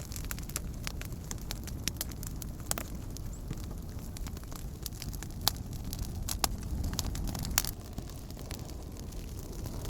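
Wood campfire crackling, with irregular sharp pops, the loudest about three-quarters of the way through, over a steady low rumble.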